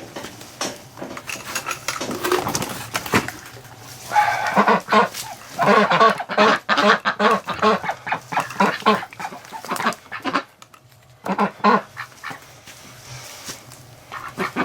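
A flock of domestic ducks and geese calling. A dense run of quick, repeated quacks and honks starts about four seconds in, then fades, and a few more calls come near the end.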